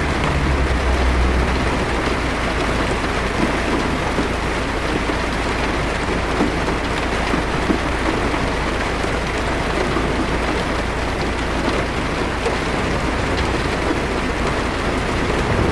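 Heavy rain drumming steadily on a car's roof and windshield, heard from inside the cabin. A low rumble of thunder fades out in the first second or two.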